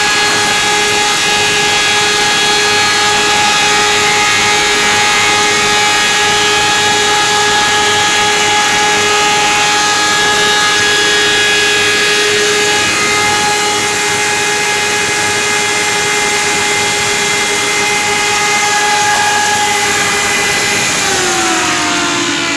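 Sienko wood moulder running with a loud, steady whine. About 21 seconds in the pitch begins to fall as the machine spins down.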